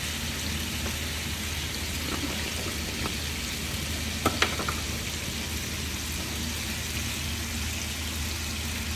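Steady sizzling of food frying in hot oil in a pan, with a couple of short sharp clicks about four seconds in.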